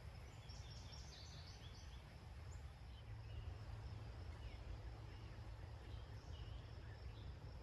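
Faint ambient noise with a steady low rumble, over which small birds give short, high chirps: a quick cluster in the first second and a half, then scattered single chirps.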